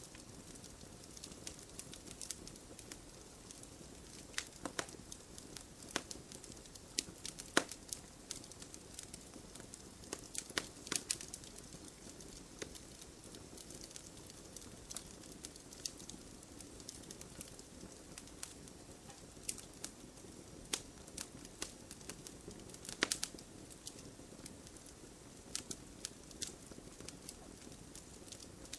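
Campfire burning with a steady low rush of flame and irregular crackling pops, several sharper snaps standing out now and then.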